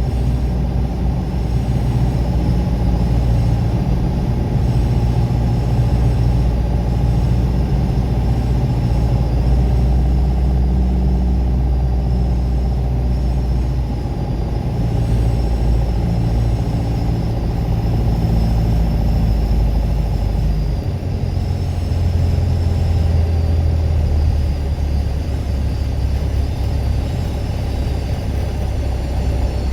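Piper PA-28 Warrior's piston engine running steadily, its low note shifting slightly about two-thirds of the way through.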